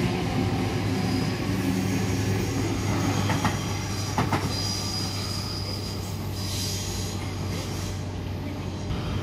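Sydney electric suburban train running past on the rails, with a steady low hum. Two sharp clacks come a second apart about three seconds in, then a high wheel squeal comes and goes.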